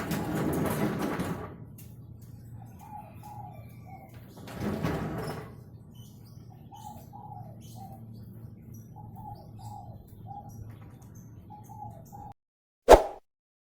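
A zebra dove (perkutut) cooing, short notes in repeated groups of three or four, over two bursts of rushing noise near the start and about five seconds in. The sound cuts off about twelve seconds in, followed by a single sharp knock.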